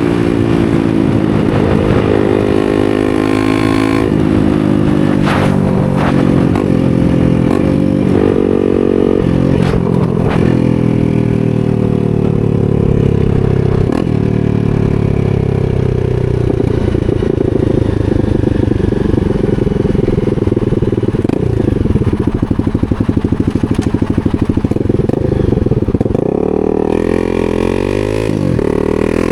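250 cc supermoto motorcycle engine running under way, its pitch climbing in steps through the gears early on, then falling slowly for a long stretch from about the middle as it slows, and rising again near the end. A few sharp clicks sound in the first half.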